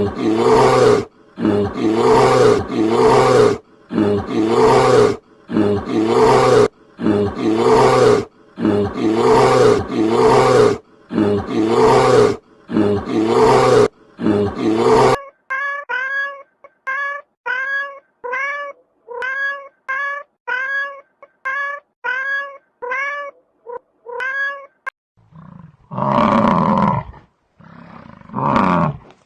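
A sequence of animal calls: about a dozen loud, harsh calls at roughly one a second, then a run of short, higher-pitched calls that rise and fall, just under two a second, then a few deep roar-like calls near the end.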